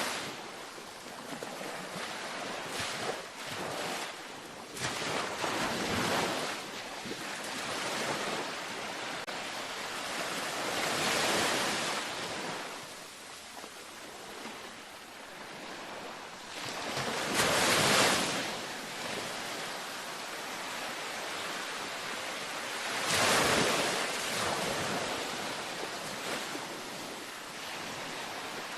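Ocean waves breaking and washing up a beach, a steady surf hiss with three louder breakers rolling in about eleven, seventeen and twenty-three seconds in.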